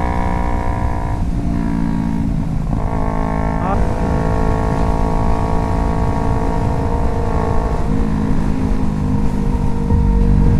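Motorcycle engine running under way, its steady pitch shifting to new levels a few times, over heavy wind rumble.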